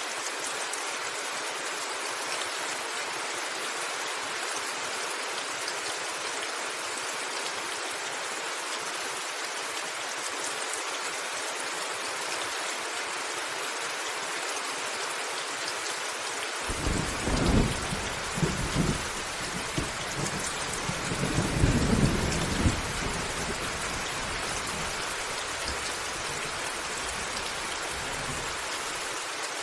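Steady rain pattering on a roof. About two-thirds of the way through, a deep roll of thunder comes in; it swells twice over some six seconds and then fades back under the rain.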